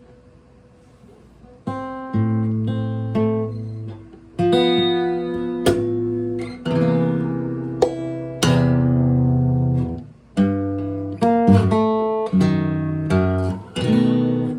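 Acoustic guitar music: chords strummed and left to ring, changing every second or so. It starts about two seconds in, after a short quiet gap.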